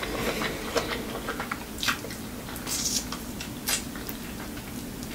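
Chewing on a mouthful of shrimp, with wet squishy mouth sounds and scattered sharp clicks.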